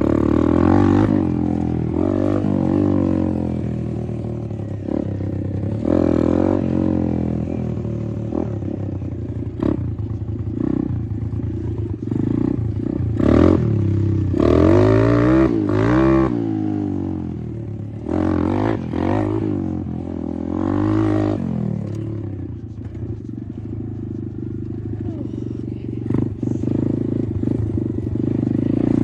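Apollo RFZ 125 dirt bike's 125 cc four-stroke single-cylinder engine revving up and down as it is ridden, with its quickest rises and falls in pitch around the middle.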